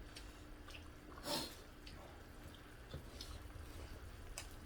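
Quiet tableware sounds: a few faint scattered clicks of utensils on dishes and a short swish about a second in, over a faint steady hum.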